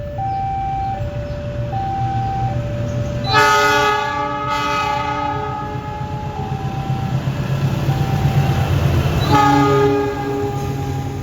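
Level-crossing alarm sounding an alternating two-note tone while a train passes with a steady low rumble. A locomotive's chord horn blows two loud blasts: one about three seconds in lasting around a second and a half, and a shorter one near the end.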